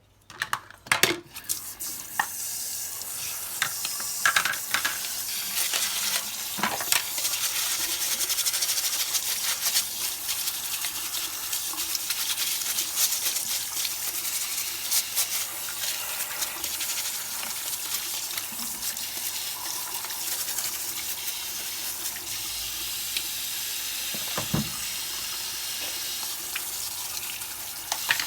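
Water spraying with a steady hiss, with a few knocks and clicks in the first couple of seconds.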